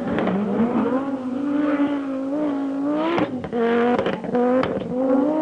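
Ford Mondeo 2.5T's five-cylinder turbo engine accelerating hard. Its pitch climbs steadily, then drops back abruptly about three seconds in and climbs again, dropping and rising a few more times as it shifts up.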